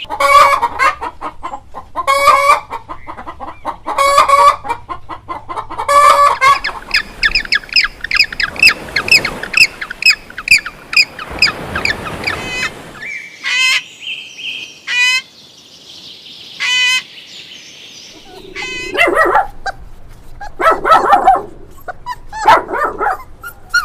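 Chickens calling: a string of short clucks, then a fast run of high peeping calls in the middle, then more scattered clucks and calls.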